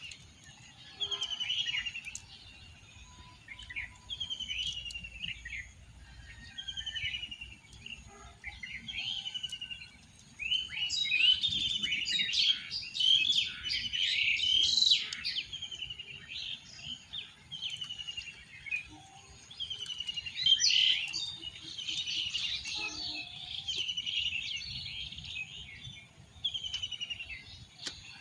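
Birds singing. One repeats a short, falling phrase every second or two, and a busier tangle of louder chirps joins in about ten seconds in and again near twenty seconds.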